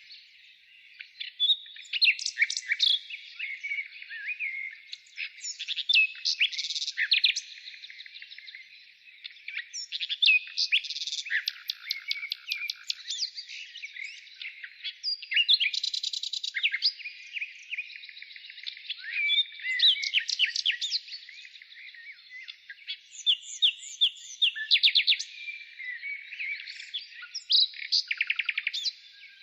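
Wild birds chirping and twittering in a busy chorus, with bursts of rapid repeated chirps every few seconds over a steady background of twitter.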